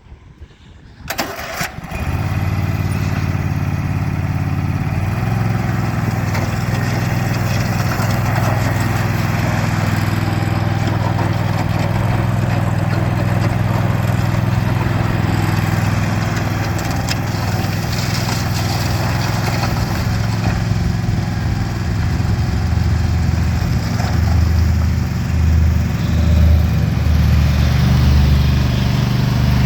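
Toro TimeCutter MX5050 zero-turn mower's engine starting about two seconds in after a few clicks, then running steadily, its note wavering in the last few seconds.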